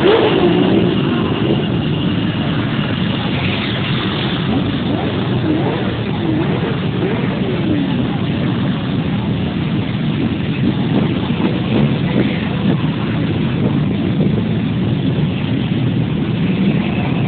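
Many motorcycle engines running at once in a steady, loud din, with single bikes revving up and falling back now and then.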